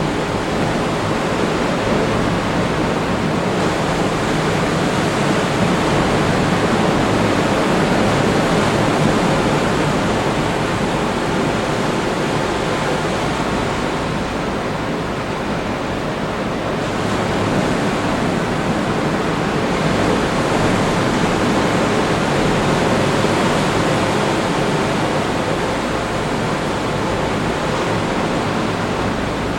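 Atlantic surf breaking on the beach: a steady rush of waves that slowly swells and eases.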